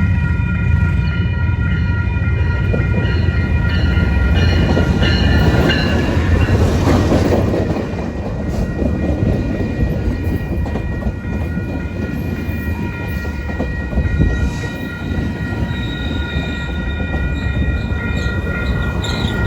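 A train passing at the station: a heavy rumble that is loudest for the first eight seconds or so and then eases, with a steady high-pitched tone sounding throughout.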